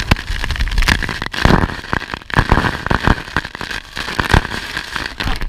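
Wind and water spray buffeting the microphone on an open speedboat: a rough crackling noise with many sharp knocks and a rumble underneath.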